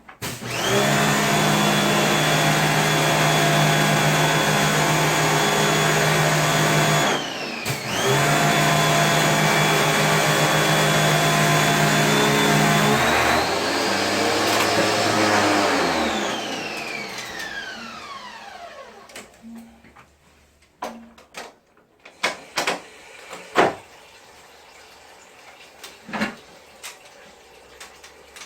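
A vacuum cleaner's electric motor runs with a steady whine, stops for a moment about seven seconds in and starts again, then rises in pitch and winds down with a falling whine after being switched off. Scattered light knocks and clicks follow.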